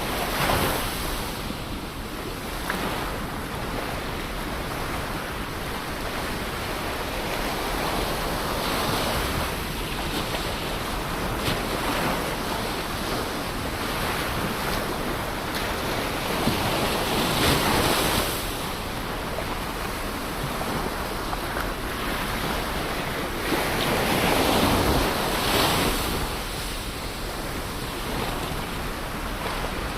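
Ocean waves breaking and washing on the shore in a continuous hiss, swelling louder every few seconds as each wave comes in, with some wind on the microphone.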